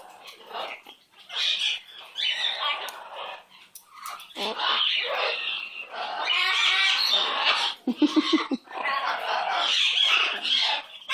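Pet parrot chattering and squawking in a long run of scratchy, speech-like calls, with a brief lower buzzy sound about eight seconds in.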